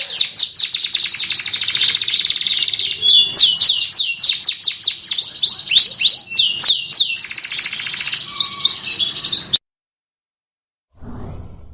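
Songbird song for masteran training: fast rolling trills and rapid strings of high, downward-sweeping whistled notes, cutting off abruptly about three-quarters of the way through. A brief low rustle follows near the end.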